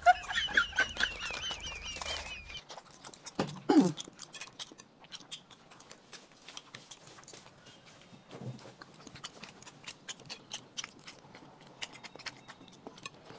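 Close-up eating sounds: irregular chewing and biting clicks as roast chicken is eaten. A warbling, bird-like call runs through the first couple of seconds, and a short falling vocal sound comes about four seconds in.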